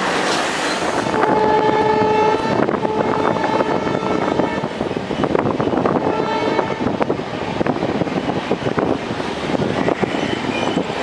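Long freight train running, with a steady rumble of wagons on the rails. A locomotive horn sounds in a couple of blasts during the first half.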